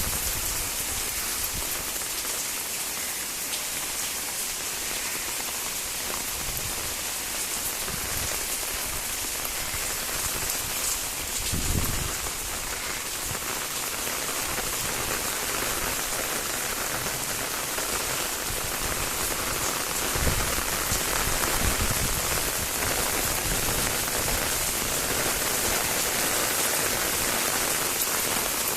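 Steady rain falling, with a brief low thud about twelve seconds in and another about twenty seconds in.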